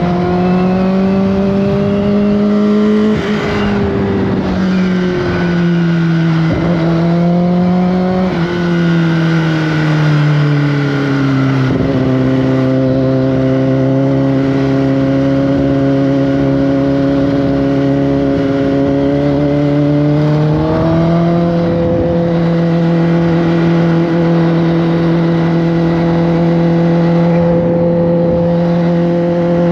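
Kawasaki Ninja ZX-10R's inline-four engine under way, its note rising and dropping sharply twice in the first dozen seconds as it pulls through the gears, then holding a steady cruising pitch, with a small step up about two-thirds of the way through.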